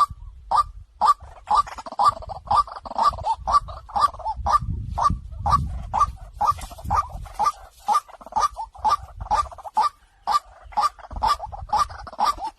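White-breasted waterhen calling, a rapid run of repeated harsh 'kwak' notes, about two to three a second, with calls overlapping at times.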